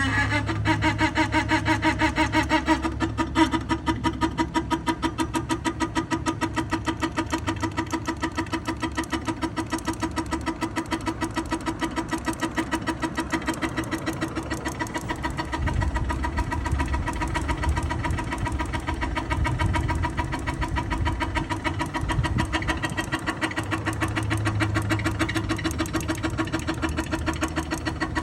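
A pipe making a loud noise: a rapid, even chattering pulse over a steady droning tone.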